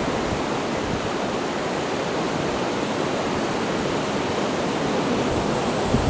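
Steady, even rushing of high surf and rain on a beach, with no gusts or breaks.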